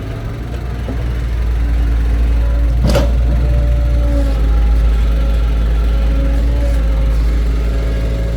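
Excavator engine running steadily and picking up, louder during the first two seconds, with one sharp knock about three seconds in.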